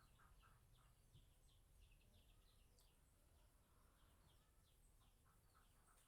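Near silence, with faint, quick chirps repeating in the background, from small birds.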